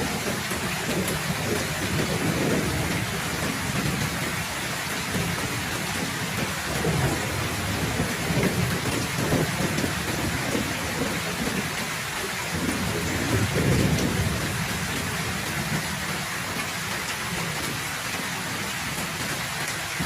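Heavy rain pouring steadily, with low rolling thunder swelling and fading underneath; the loudest roll comes about two-thirds of the way through.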